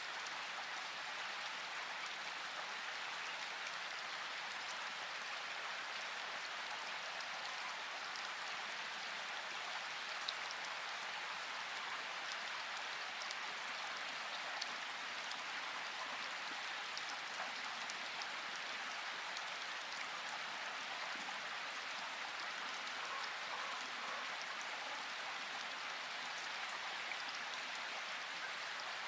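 Steady rain falling, an even hiss with scattered drops ticking through it and a couple of louder single drips.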